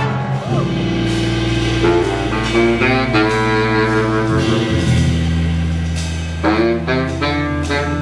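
Jazz big band playing, its horn section holding long sustained chords over a steady bass line, the chord changing about every two seconds.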